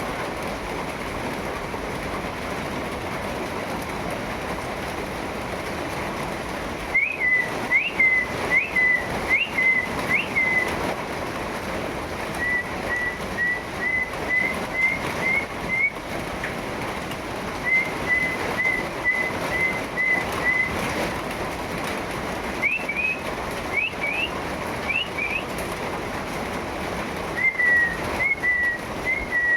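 Steady rain falling. From about a quarter of the way in, a bird whistles in several runs of short notes: quick upward-flicking notes and even strings of short level ones.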